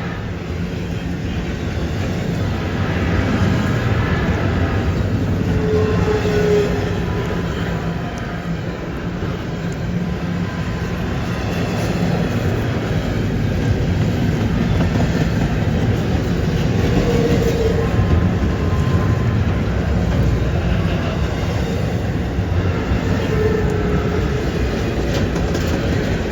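Freight train rolling by on a curve with a steady, loud rumble of wheels on rail. Short wheel squeals come and go several times, at about 6, 12, 17 and 23 seconds in.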